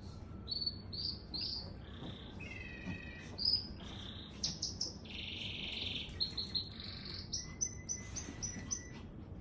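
A bird singing: a quick string of high chirps and whistled notes, some sweeping up or down, with a short buzzy trill about five seconds in.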